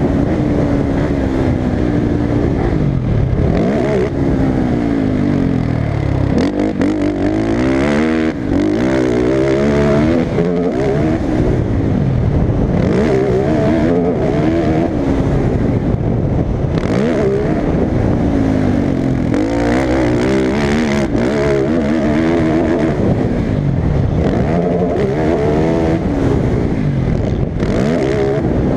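Motocross racing engine being ridden hard, revving up and falling back again and again. The pitch climbs in steps as it shifts up, then drops off the throttle every second or two.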